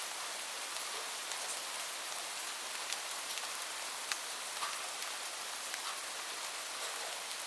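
Steady rain: an even, dense hiss with scattered individual drops ticking sharply through it.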